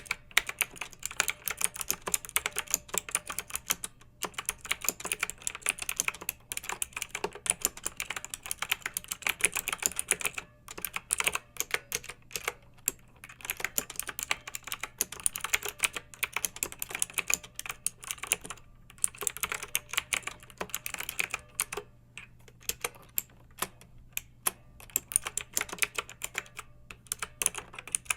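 Clicky mechanical keyboard typing: a fast, irregular stream of sharp keystroke clicks with a few brief pauses.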